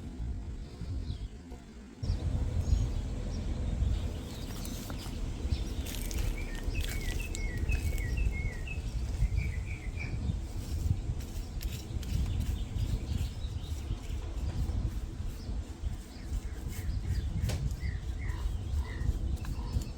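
Small birds chirping in runs of short, quick notes, twice, over a loud low rumble that starts abruptly about two seconds in.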